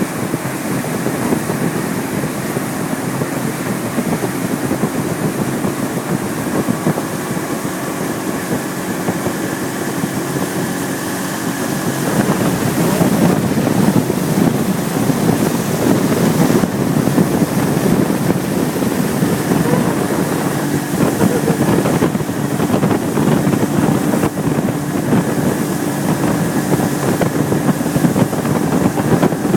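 Motorboat engine running while under way, with wind buffeting the microphone; it gets louder about twelve seconds in.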